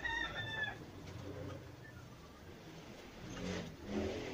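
A bird calls once at the start, a short, slightly falling chirp with several overtones. Soft handling rustles follow about three and a half seconds in.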